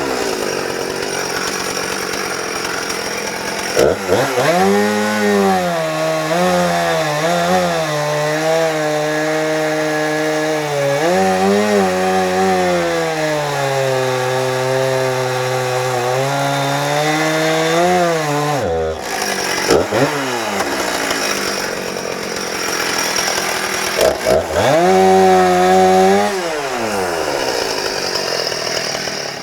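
Two-stroke chainsaw fitted with a Rotatech chain and bar, cutting wood: the engine revs up and its pitch sags and wavers under load while the chain is in the cut. One long cut of about fifteen seconds, then a shorter one near the end.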